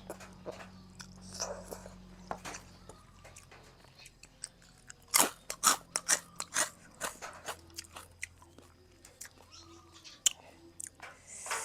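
Close-miked chewing of boat noodles and sliced pork, wet mouth clicks with a run of sharper, louder ones in the middle.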